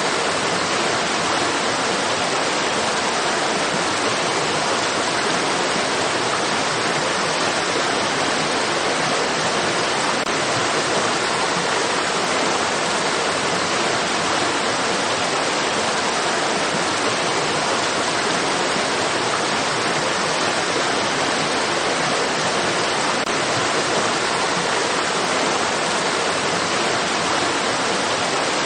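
A stream's running water rushing steadily, an even hiss with no breaks or changes.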